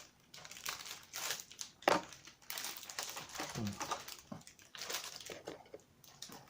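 Close-up mouth sounds of someone chewing a crunchy chocolate-covered caramel biscuit: irregular crunching and crackling, with a few short low hums in between.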